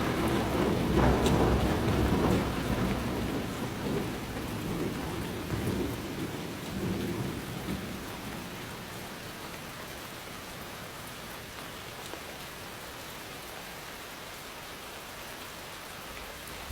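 Steady rain falling, with a low rumble of thunder that dies away over the first half, leaving only the rain.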